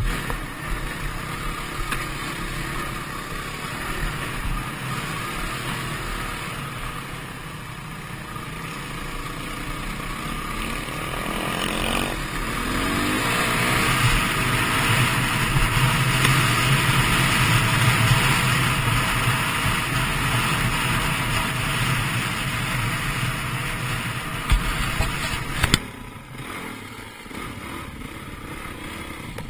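Dirt bike engine running continuously, growing louder toward the middle and falling away sharply near the end.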